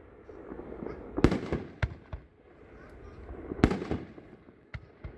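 12-shot 'Magic Thunder' firework cake firing aerial shells: two heavy booms about two and a half seconds apart, with lighter bangs and a low rumble between them.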